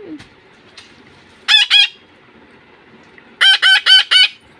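Pet parrot calling loudly: two short calls about a second and a half in, then a quick run of four about three and a half seconds in.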